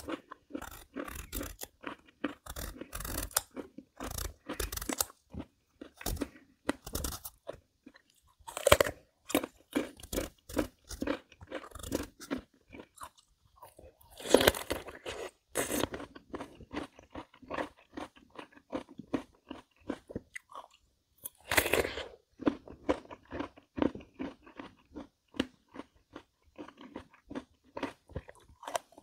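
Chewing crisp Korean melon (chamoe): a continuous run of crunchy bites and chews, with a few louder crunches about nine, fifteen and twenty-two seconds in.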